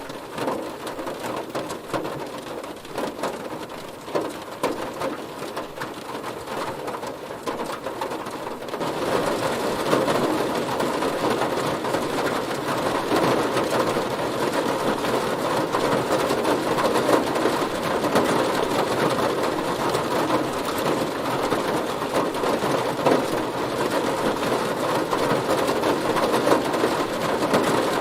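Heavy rain hitting a car's roof and body, a dense patter of drops that becomes louder and heavier about nine seconds in.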